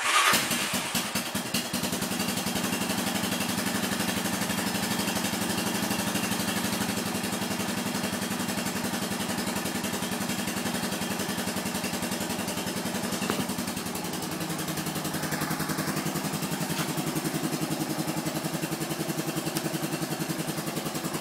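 Honda 350 FourTrax 4x4 ATV's single-cylinder four-stroke engine starting from cold after sitting two days: it fires up at once and settles into a steady, rapidly pulsing idle. The idle note shifts slightly about fourteen seconds in.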